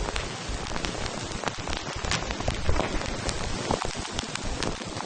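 Steady rain falling on a surface, with many separate drops landing close by as sharp taps over a constant hiss.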